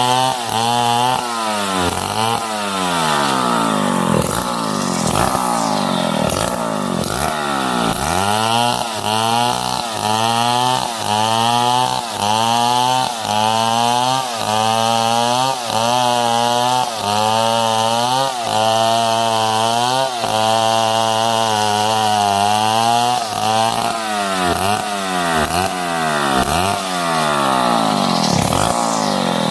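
Stihl 070 two-stroke chainsaw cutting wood at full throttle. Its engine pitch drops and recovers about once a second as the saw loads up in the cut and frees again.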